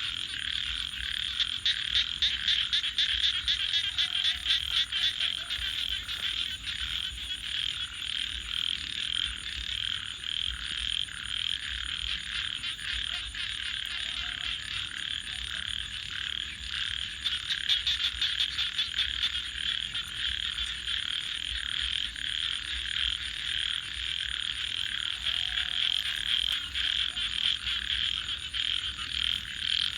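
A dense chorus of frogs calling without pause, with stretches of fast pulsed trills about two seconds in and again past the middle. A thin steady high tone sits above the chorus.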